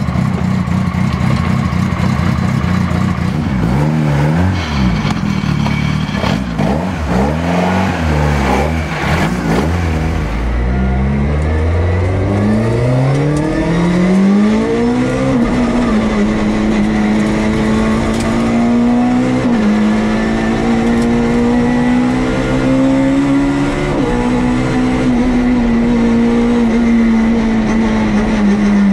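Rally car engine heard from inside the cockpit. First it runs with its revs rising and falling, then it accelerates hard from a standstill, its pitch climbing steadily. It then holds high revs, with a brief dip at each quick upshift of the sequential gearbox.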